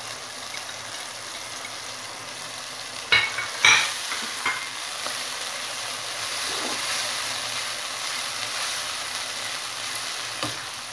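Onion paste with freshly added ginger and garlic paste sizzling steadily in hot oil in a nonstick pan while being stirred with a spatula. Two sharp knocks come a little after three seconds in.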